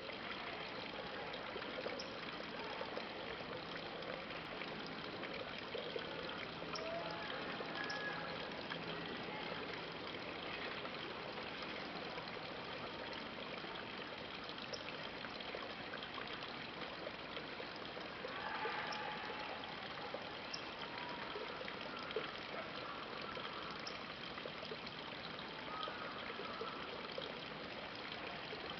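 Steady rush of running water from a small river, an even, unbroken sound.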